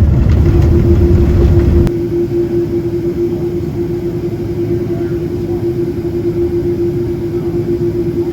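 Steady vehicle running noise heard from inside. A loud low rumble drops away abruptly about two seconds in, leaving a steady drone with a single held tone.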